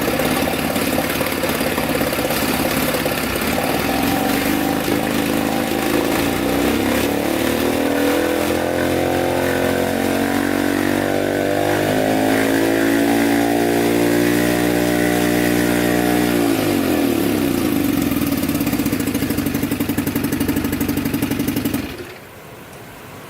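Chrysler 9.2 hp two-stroke outboard motor running in forward gear, its propeller drive working again after the repair. The revs climb over several seconds, hold, then drop back to idle, and the engine cuts off shortly before the end.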